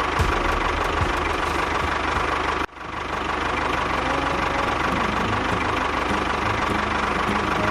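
A small motor on a miniature model machine running steadily with a fast rattling rhythm. It cuts out abruptly a little under three seconds in and then comes straight back.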